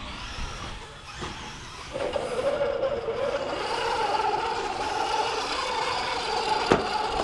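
A radio-controlled scale trail truck's electric motor and gears whining steadily as it drives, starting and getting louder about two seconds in. A single sharp knock comes near the end.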